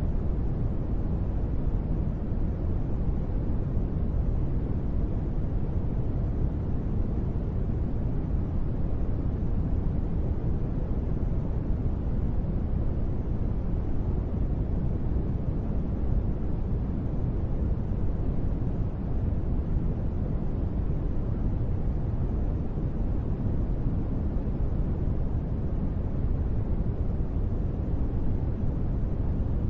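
Steady, deep noise of a sleep-sound track sold as gentle rain. It holds one even level throughout, mostly low rumble with little hiss and no separate drops.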